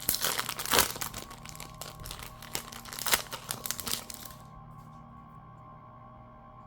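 Plastic wrapper of a Pokémon mini booster pack crinkling and tearing as it is opened by hand, for about four seconds, then stopping. Quiet background music continues underneath.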